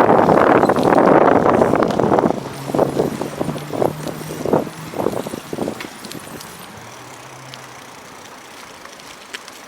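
Strong wind buffeting the microphone for about two seconds, then dropping to a few short gusts and a low steady hiss.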